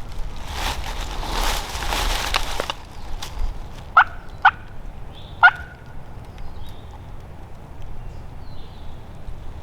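Three short, loud turkey yelps, each note dropping in pitch, about four, four and a half and five and a half seconds in. Before them comes a couple of seconds of rough rustling noise with a few clicks.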